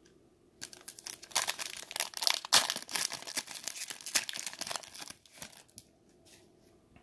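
A 2020 Mosaic football trading-card pack wrapper torn open and crinkled, a crackling run of about five seconds that starts just under a second in and dies away near the end.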